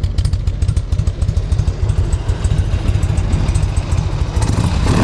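2002 Harley-Davidson Electra Glide's carbureted Twin Cam 88 V-twin idling with a loping beat. It rumbles through the factory exhaust, whose baffles have been taken out.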